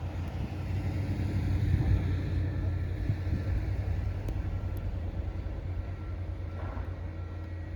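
A vehicle running with a steady low rumble, with a faint high beep repeating over it.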